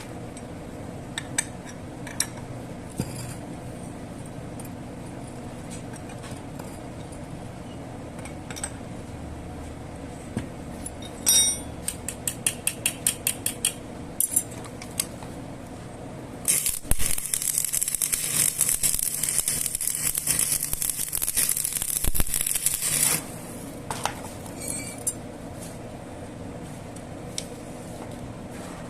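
Metalworking in a machine shop: small metal parts clinking and tapping over a steady machine hum, with a quick run of clicks in the middle and a few seconds of loud, harsh hissing noise after it.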